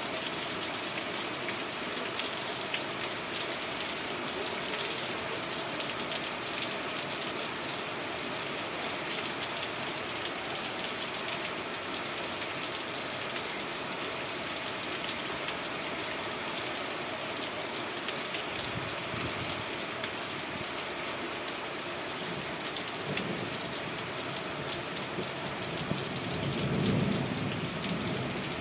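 Steady rain falling and pattering on surfaces, an even hiss with fine drop ticks throughout. A low rumble swells near the end and peaks briefly.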